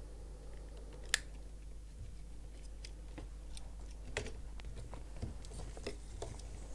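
A lighter clicks once about a second in, used to singe the end of crochet thread lightly, followed by faint small ticks of handling.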